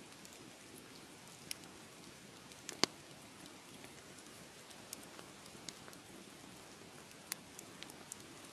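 Fireplace fire crackling: scattered sharp pops and snaps over a soft steady hiss, the loudest pop about three seconds in.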